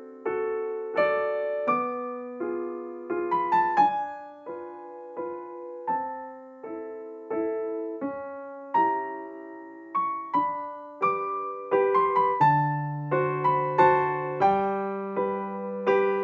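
Background piano music: a gentle solo piece of struck notes and chords, each dying away.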